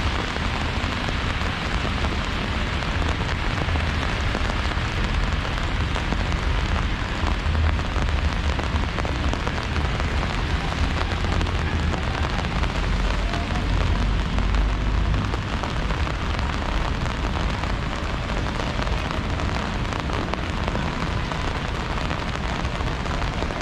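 Steady rain falling and splashing on hard surfaces, with a low rumble underneath.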